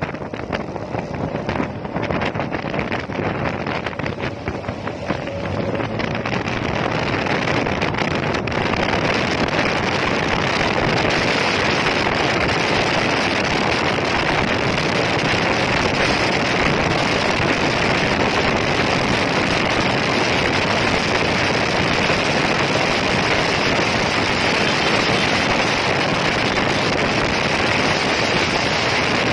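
Yamaha NMAX 155 scooter ridden flat out at top speed: dense rushing wind and road noise on the microphone over the running engine. It builds over the first eight or nine seconds and then holds steady.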